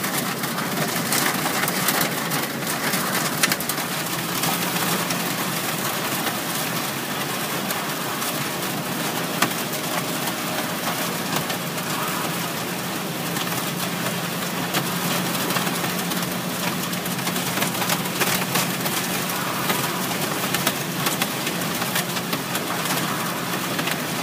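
Heavy storm rain pattering densely on a car's body and windscreen, with the car's low steady running hum underneath.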